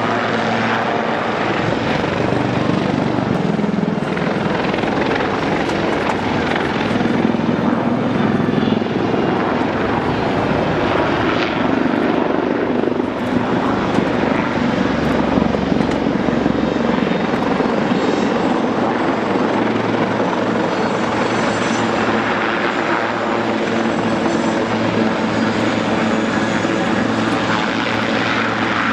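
Westland Lynx helicopters flying a display: a loud, steady mix of rotor and turbine noise.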